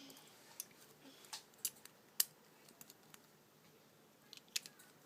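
Faint, scattered clicks and taps of Beyblade spinning-top parts being handled and fitted together, about eight sharp clicks at uneven intervals.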